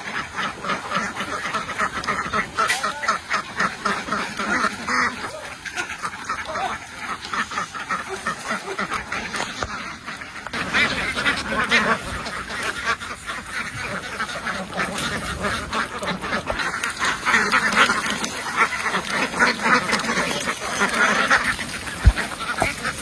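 A large flock of domestic ducks quacking continuously, many calls overlapping into a dense din. A single short thump sounds near the end.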